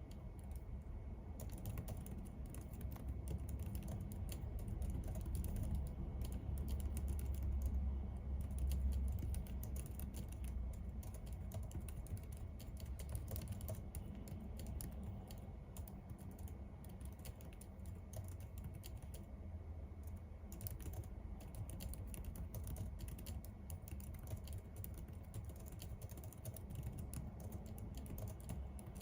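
Typing on a computer keyboard: a steady, irregular run of keystroke clicks, over a low background hum.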